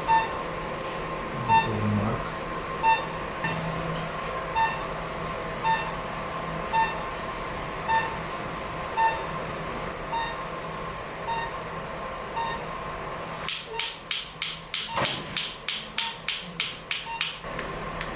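Patient monitor beeping steadily, about once a second. From about 13 seconds in, a quick run of sharp taps or knocks, about three a second, louder than the beeps.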